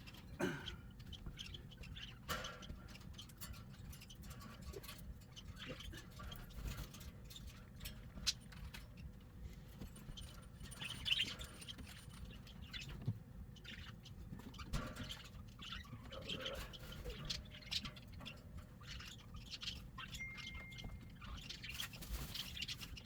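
Cockatiels chirping and squawking now and then, among scattered light clicks and knocks.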